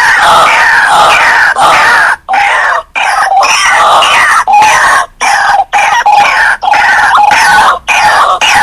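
White-breasted waterhen (ruak-ruak) calling loudly and insistently: harsh repeated notes, some sliding downward, others a short steady note repeated about twice a second, with a few brief breaks between phrases.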